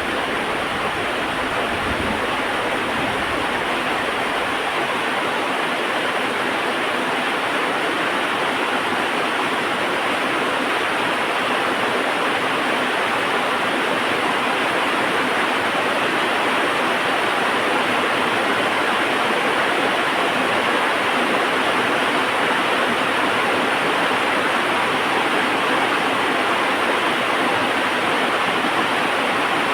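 Heavy rain falling as a steady, even hiss, with the last of a low thunder rumble dying away in the first few seconds.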